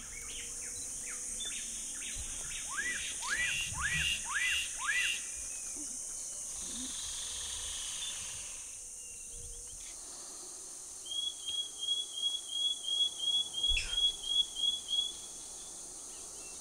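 Bird song over a steady high insect drone: five looping whistles about half a second apart, then, after a lull, a fast run of about a dozen short, high, evenly spaced notes from a Black-capped Donacobius.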